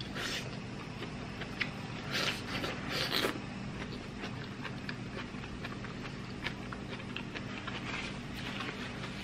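Close-up eating: biting and chewing a cooked leafy green stalk, with a few crisp crunches in the first few seconds, then quieter chewing with small mouth clicks, over a low steady hum.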